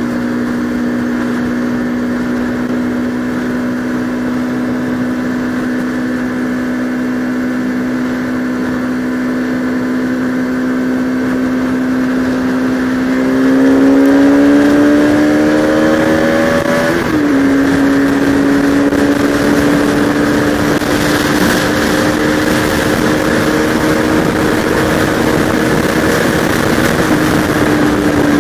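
Bajaj Pulsar RS200 single-cylinder motorcycle engine cruising steadily. About halfway through it revs up, and a gear change drops the pitch sharply about two-thirds of the way in. It then runs steadily at a slightly higher pitch, with rushing wind noise growing as the speed picks up.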